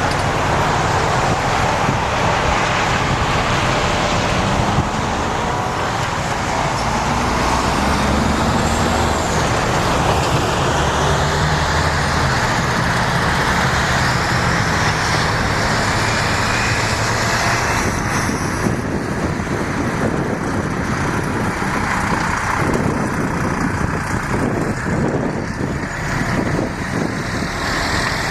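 Vehicle running steadily: a low engine drone under constant rolling noise, with a run of short knocks near the end.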